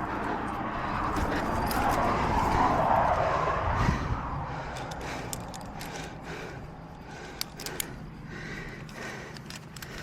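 Rustling and scraping that swells and fades over the first few seconds, then a scatter of short light metallic clicks and clinks from climbing gear being handled at a belay stance.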